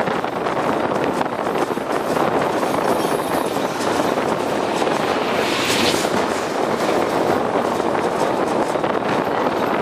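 Steady running noise of a passenger train crossing a bridge slowly under a speed restriction, heard by an open carriage window with wind on the microphone. A brief hissing swell comes about six seconds in.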